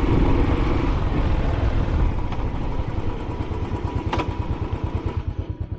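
Royal Enfield Classic 500's single-cylinder engine running on the move under wind noise, then easing off into an even, low, rapid beat as the wind hiss fades near the end. A single sharp click about four seconds in.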